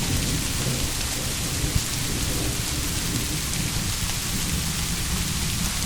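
Steady rain with a low, continuous rumble of distant thunder underneath.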